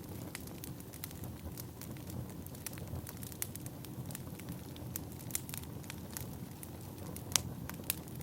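Firewood burning: irregular crackles and sharp pops over a low, steady rumble of flame, with the loudest pops near the end.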